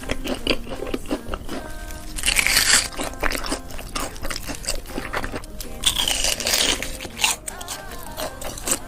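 Close-miked ASMR eating: a person biting into and chewing crunchy food, with dense crackling chews and two louder crunching bites, about two seconds in and about six seconds in.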